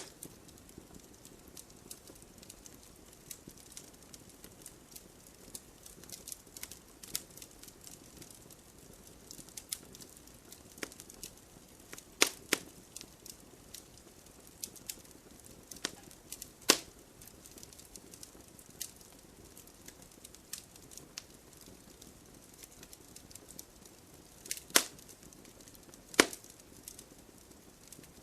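Wood campfire burning with a soft steady hiss and irregular crackles, broken by several sharp louder pops.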